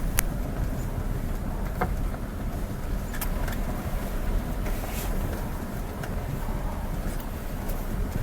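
Road vehicle driving: steady engine and road rumble, with a few faint clicks.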